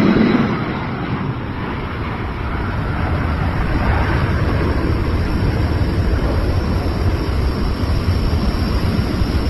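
Light propeller airplane's engine running, a steady rumbling drone that grows louder from about two and a half seconds in and then holds.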